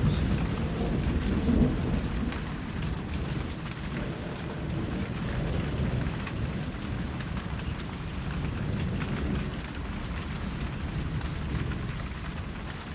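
Steady rainfall, an even hiss of drops, over a low rumble that is heaviest in the first two seconds and then eases off.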